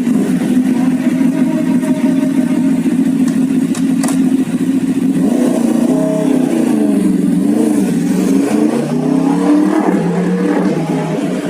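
Superbike engine running at steady high revs, its pitch dropping and then climbing back up about halfway through.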